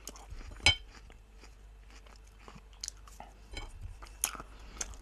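Close-up chewing of a soft potato casserole, with scattered small mouth clicks and smacks. A sharp clink comes about two-thirds of a second in, and more clicks follow in the second half.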